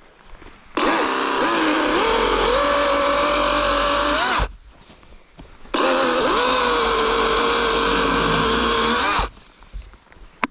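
Electric power saw cutting firewood in two runs of about three and a half seconds each, its motor pitch dropping as it bites into the wood and steadying under load.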